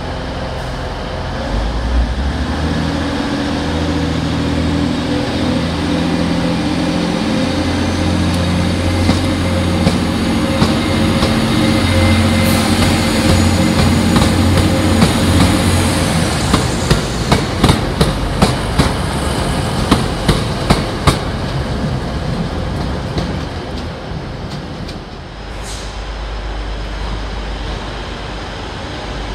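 Class 185 diesel multiple unit pulling away, its diesel engines running under power with the engine note stepping up and down. About halfway through comes a run of sharp clicks as the wheels cross rail joints and points. The sound then drops to a lower rumble.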